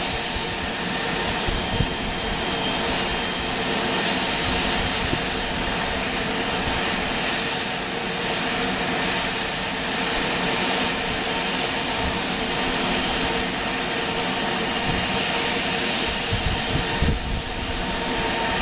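Jet aircraft engines running on the ground, loud and steady, with a thin high-pitched whine held over the roar.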